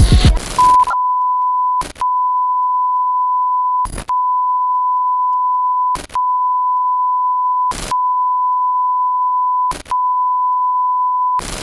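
A continuous electronic beep: one pure tone held at a steady pitch for about ten seconds, like a censor bleep, broken by short clicks about every two seconds.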